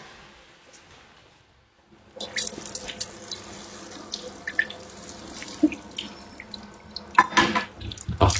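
Liquid running or pouring steadily from about two seconds in, with scattered clinks and knocks of kitchen utensils that grow louder near the end.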